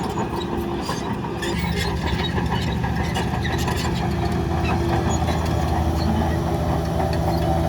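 Heavy diesel engine of earthmoving machinery running steadily, with light metallic clinks and rattles over it in the first second or so.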